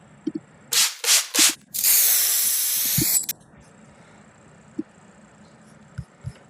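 Hissing, spray-like noise: three short bursts, then one steady hiss about a second and a half long that cuts off suddenly.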